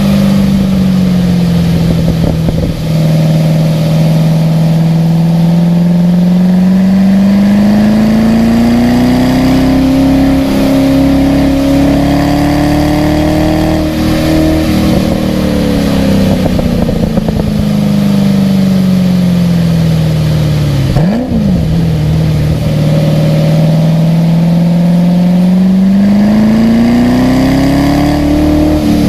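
Car engine running hard through a lap, its pitch climbing slowly under acceleration and sinking as it slows. About 21 seconds in the revs dip and briefly spike in a quick blip, and near the end the pitch drops sharply at a gear change.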